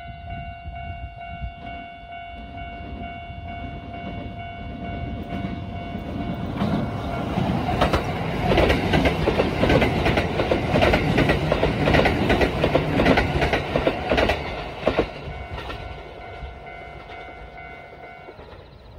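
A train passing close by: the rumble builds, peaks in the middle with rapid clicking of wheels over rail joints, and fades toward the end. A steady high-pitched tone runs under it and stops shortly before the end.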